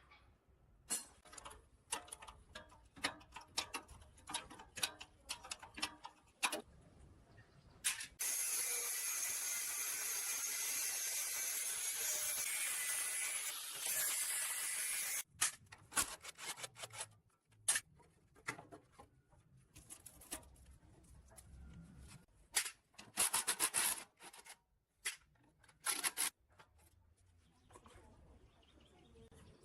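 Hand tools working on metal: a run of sharp clicks and knocks, then a steady hiss lasting about seven seconds, then more scattered clicks and knocks.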